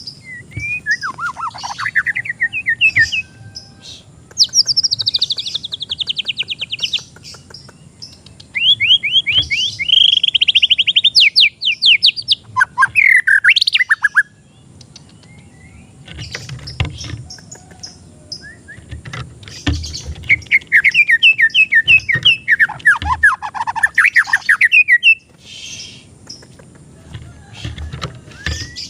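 White-rumped shama (murai batu) singing: several loud phrases of fast, repeated sweeping notes, broken by short pauses.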